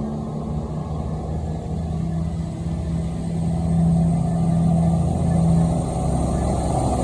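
Chiltern Railways Class 168 diesel multiple unit departing, its underfloor diesel engines running under power with a steady low drone that swells louder about four seconds in.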